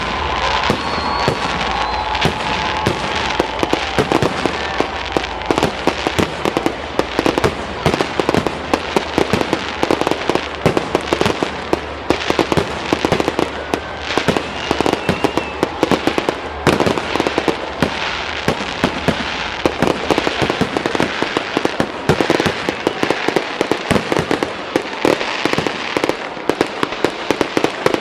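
Fireworks display: a dense, continuous volley of bangs and crackling bursts, with a few faint whistles.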